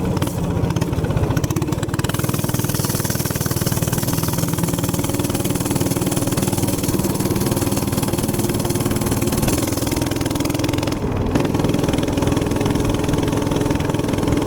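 A minibike's small gasoline engine running steadily at cruising speed, with wind rushing over the microphone.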